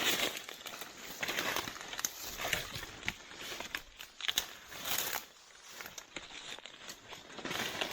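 Dry leaf litter and brush rustling and crackling in irregular bursts as a person moves through undergrowth.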